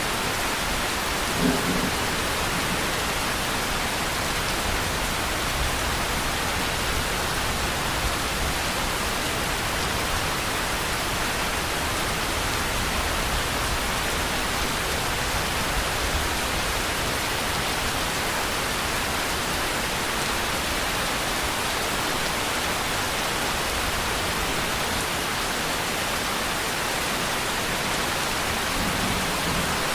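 Steady rain falling, an even hiss with low rumbling underneath, and one brief low thud about a second and a half in.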